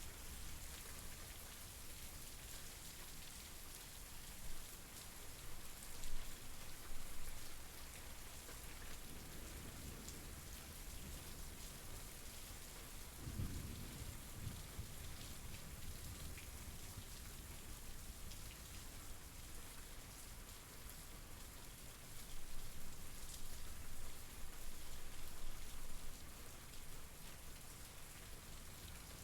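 Steady rain falling on surfaces, a continuous hiss of drops that swells louder a few times. About halfway through comes a low rumble of thunder.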